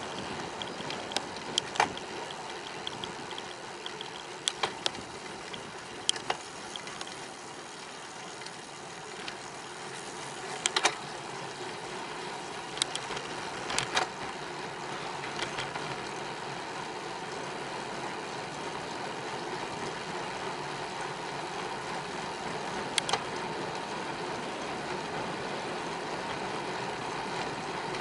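Bicycle on the move: steady wind and tyre noise, with sharp clicks and rattles every few seconds, mostly in the first half.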